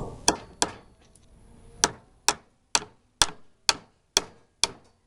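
Hammer driving nails into the wooden boards of a top bar beehive box: two sharp blows, a pause of about a second, then a steady run of seven blows about two a second.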